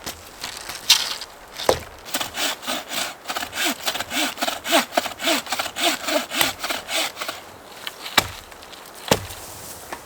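Bucksaw cutting through wood in quick back-and-forth strokes, about three a second, for about five seconds. A few single sharp wooden knocks come before and after the sawing.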